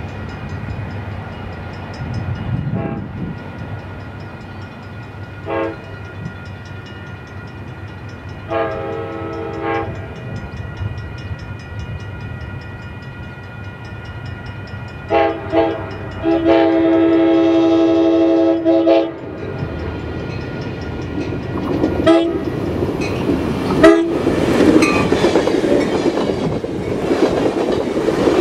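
Amtrak Pacific Surfliner train horn sounding for the grade crossing as the train approaches: a couple of brief toots, then a long blast, two short blasts and a final long blast, over the steady ringing of the crossing bells. In the last several seconds the train reaches the crossing and passes close by, its wheel and rail noise growing loud, with sharp clunks over the crossing.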